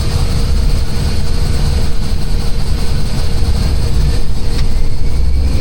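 Airliner in motion: a steady low rumble with a faint constant hum.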